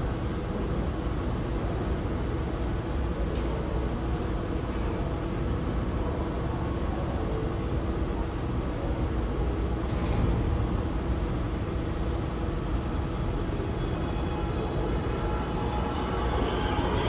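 New York City subway train running in the station with a steady low rumble; a rising wheel squeal begins near the end.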